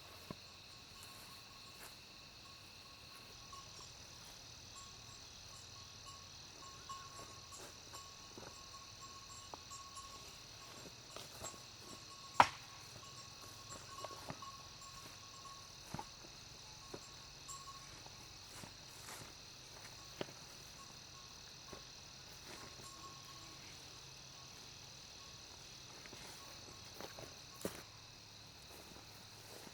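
Insects chirping in a steady high drone, with scattered light clicks and knocks and one sharp knock about twelve seconds in.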